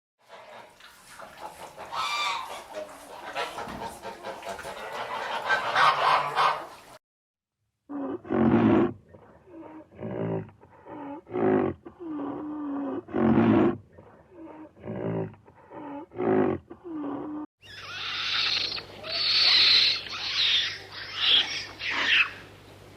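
Farm animals calling in several short clips cut together: a run of short, repeated pitched calls in the middle, then higher-pitched calls over a steady low hum near the end.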